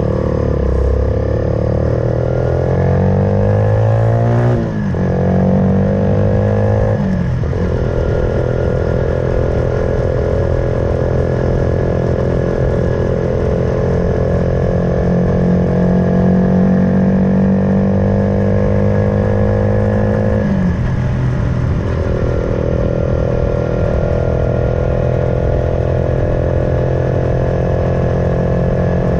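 Suzuki Van Van 125's single-cylinder four-stroke engine, fitted with an aftermarket full exhaust, pulling up through the gears. Its note rises, then drops at a shift about five and again about seven seconds in. It then holds steady revs, with a brief dip and pick-up a little past twenty seconds in.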